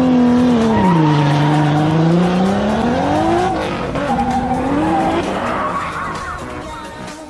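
Drift car engine revving up and down through a slide, with tyres squealing. The revs dip, climb to a peak about halfway through, fall again and fade out near the end. Music plays underneath.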